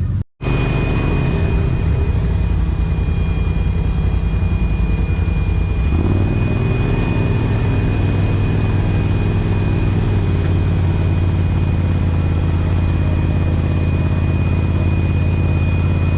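Side-by-side UTV engine running under way, with a steady high whine over it; the engine note shifts about six seconds in and then holds steady.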